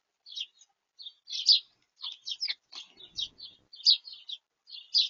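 Small songbirds chirping at close range on a feeder, a quick run of short high chirps at about two to three a second. A soft bump about three seconds in.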